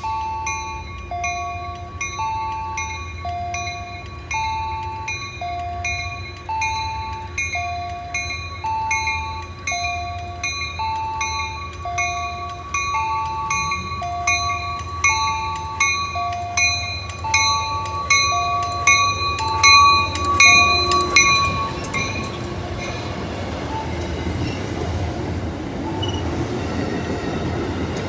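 A warning bell rings steadily in an alternating two-note pattern as an Amtrak Downeaster passenger train approaches, growing louder, and stops about three quarters of the way through. The train's wheels and cars then rumble past close by.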